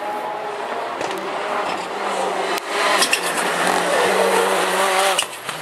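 Rallycross Supercar engines running on the circuit, their pitch shifting as they rev. The sound gets louder about halfway through and drops off shortly before the end.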